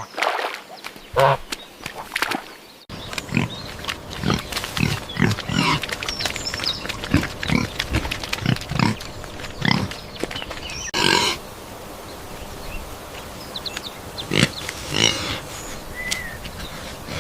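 Pigs grunting and squealing in quick short calls. The sound changes abruptly about three and eleven seconds in, and the calls are sparser after the second change.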